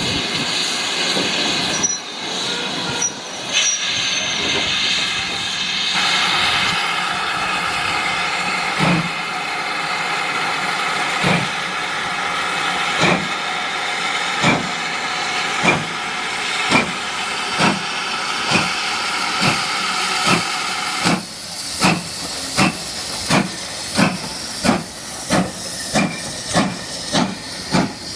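Steam locomotive starting away: a steady hiss of steam with exhaust chuffs that begin a second or two apart and quicken to nearly two a second near the end as it gathers speed.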